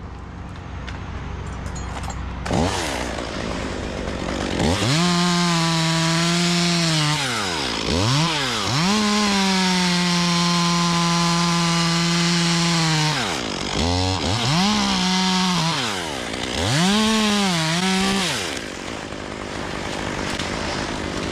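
Two-stroke chainsaw idling, then revved to full throttle and held there while cutting wood; its pitch sags and recovers several times under load. Near the end it drops back to idle.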